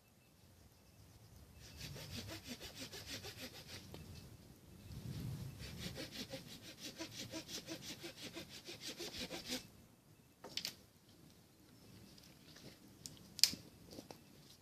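Hand saw cutting wood in quick, even back-and-forth strokes, about five a second, in two runs with a brief pause between. A few sharp clicks follow near the end.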